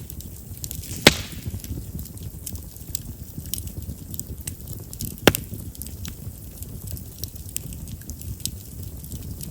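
Chestnut firewood burning in a campfire, crackling steadily with many small snaps over a low rumble of flame, and two loud pops, about a second in and about five seconds in. Chestnut is known for popping because of its large wood vessels.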